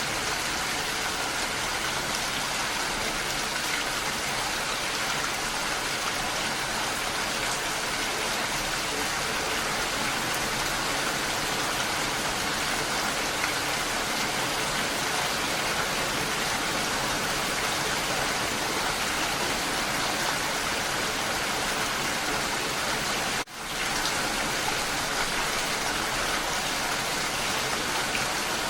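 Steady rain falling, a dense even patter with no letup, broken only by a momentary drop in level about three-quarters of the way through.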